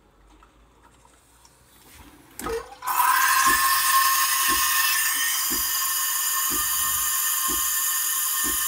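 Espresso machine's automatic milk frother starting about three seconds in with a loud steady hiss of steam and a whistling tone as it froths milk for a cappuccino. Faint low knocks about once a second run underneath.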